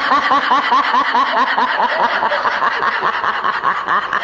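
High-pitched laughter in quick, even pulses, about four a second.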